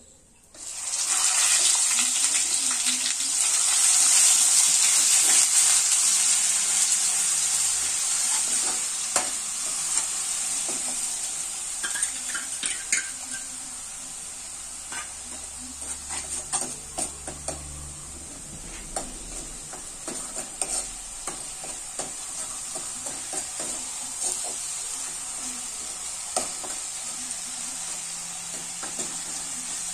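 Onion paste dropped into hot oil in a kadhai, sizzling hard from about half a second in and slowly dying down. A steel ladle stirs it, clinking and scraping against the pan.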